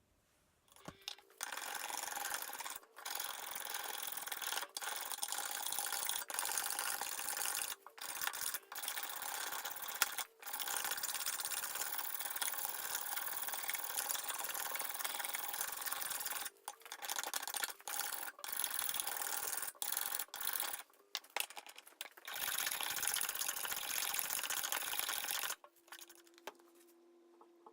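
Sanding: a steady, hissing rub of abrasive against the work, broken by several short pauses, which stops shortly before the end.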